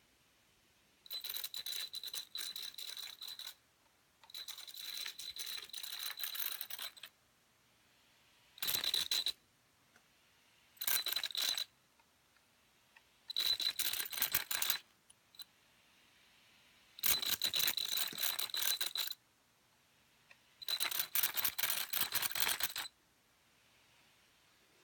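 Redcat Volcano EXP RC truck's drivetrain grinding in seven short throttle bursts of one to three seconds each, a rattling grind with a steady high whine through it. The owner takes it for the pinion gear not meshing properly with the spur gear.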